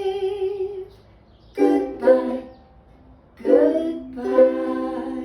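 A sung note held with vibrato, then ukulele chords strummed four times to close a song, the last chord left ringing and fading.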